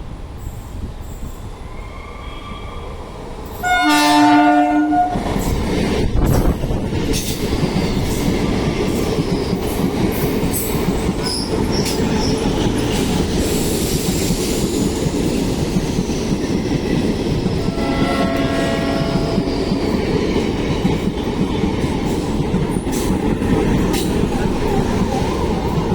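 Train horn sounding about four seconds in as a train runs through the station without stopping, followed by the steady noise of the passing train's wheels on the rails. A second, shorter horn sounds about 18 seconds in.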